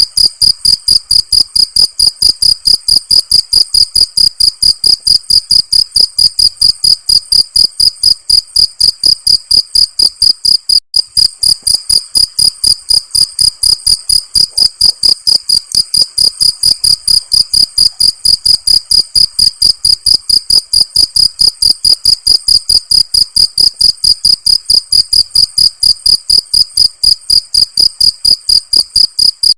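Cricket chirping in a steady, loud, high-pitched run of about five or six pulses a second, with one momentary break about eleven seconds in.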